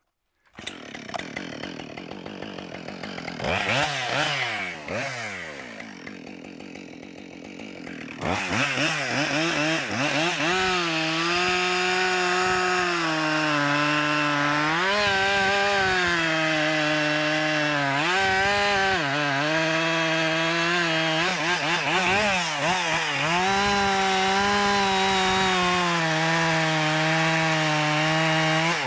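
Chainsaw revving up and down, then from about eight seconds in running at full throttle cutting into a standing hemlock trunk to fell it, its pitch dipping briefly several times under load.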